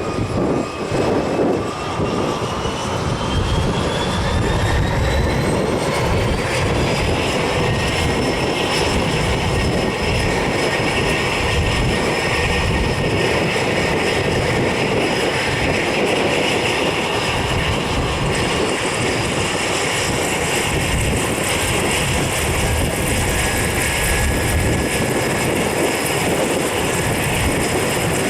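Cessna 208 Caravan's Pratt & Whitney PT6A turboprop starting up: the turbine whine rises steadily for about seven seconds and then holds at idle, growing brighter about two-thirds of the way in. Wind buffets the microphone throughout.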